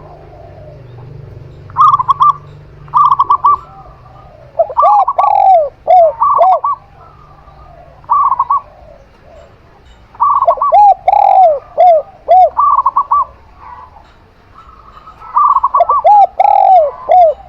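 A zebra dove and a spotted dove cooing over one another: short rapid quavering coos alternate with runs of lower, arched coo notes, repeating every second or two.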